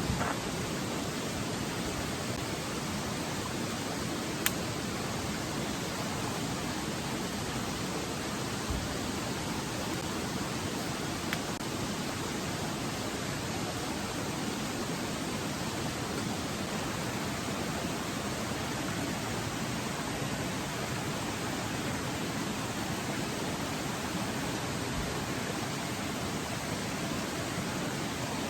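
Steady, even rushing noise with two faint clicks about four and eleven seconds in.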